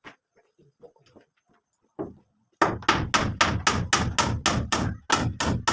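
Hammering: a single blow about two seconds in, then a fast, even run of hammer strikes, about four a second.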